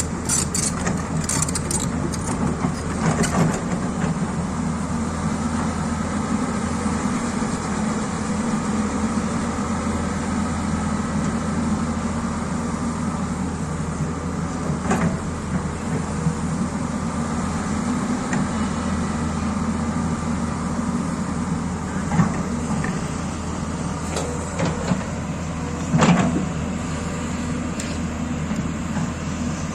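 Excavator engine running steadily, with a few short knocks or clanks scattered through, the loudest near the end.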